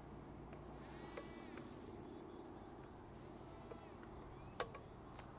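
Faint, steady insect chirping, a rapid string of high pulses, over a low hum, with one sharp click about four and a half seconds in.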